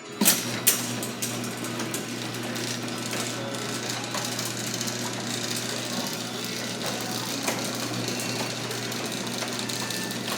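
Garage door opener starting with two sharp clicks, then its motor and drive running with a steady hum and rattle.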